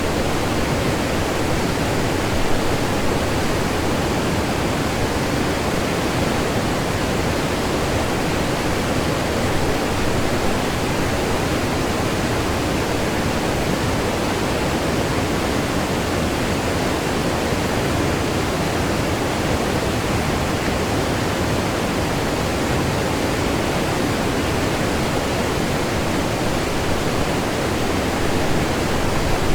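Waterfall on a river heard close up: a loud, steady rush of falling and churning water with no break.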